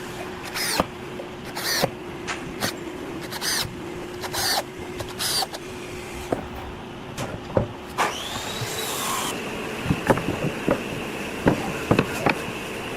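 Workshop tool sounds: short rasping strokes about once a second over a faint steady hum. Past the middle comes a whine that rises and falls, then a steady high tone with scattered knocks.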